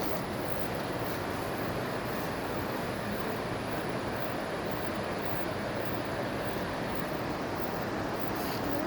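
Kunthipuzha river water rushing steadily over rocks, an even continuous roar.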